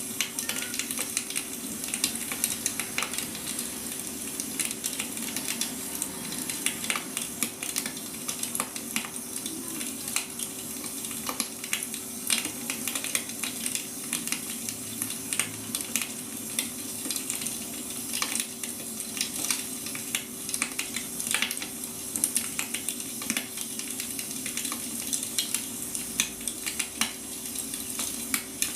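Burning firewood crackling, with many irregular sharp pops over a steady hiss and a faint steady hum underneath.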